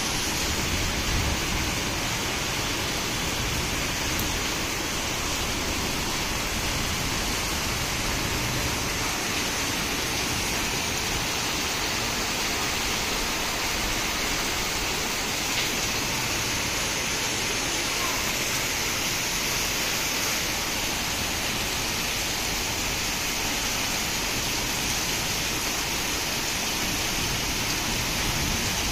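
Heavy rain pouring down steadily, a dense, even hiss that doesn't let up.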